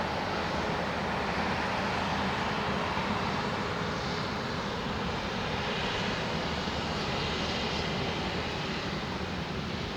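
Airbus A350-900's Rolls-Royce Trent XWB jet engines running steadily at low power as the airliner taxis after landing: a broad rumble with a faint whine above it in the middle.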